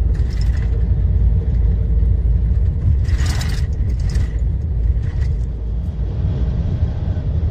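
Lorry engine and road noise rumbling steadily inside the cab while driving, with a few short rushing noises, the loudest about three seconds in.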